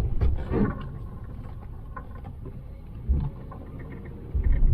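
Truck engine dropping in pitch shortly after the start, then a low rumble with a few dull thumps, the loudest near the end.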